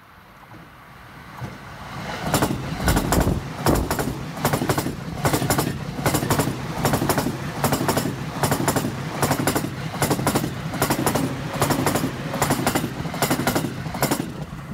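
JR East electric commuter train in orange-and-green stripes passing close by. A rumble grows as it approaches, then a steady clickety-clack of paired wheel clacks over the rail joints, a little more than one pair a second, runs over a steady motor hum.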